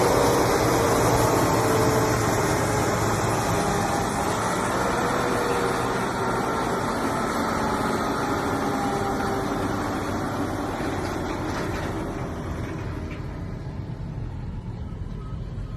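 Muscle car's engine and exhaust running, the engine note slowly falling in pitch as the sound gradually fades.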